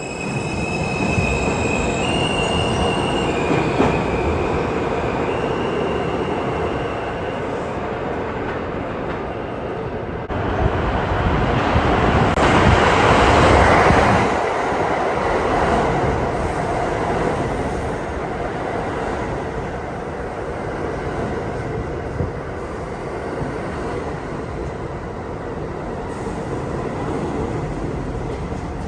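New York City subway train pulling out of the station: its traction motors give stepped whining tones as it speeds up over the first few seconds. The wheels then rumble and squeal on the rails, loudest about 12 to 14 seconds in, and the rumble carries on more steadily afterwards.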